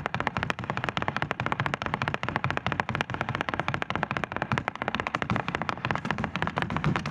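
Flamenco footwork (zapateado): a fast, unbroken run of heel and toe strikes on a stage floor, about ten a second.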